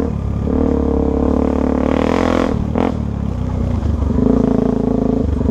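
Off-road motorcycle engine running, its pitch shifting up and down with the throttle. A short burst of noise comes about two and a half seconds in, and the engine holds a higher, steady note from about four seconds on.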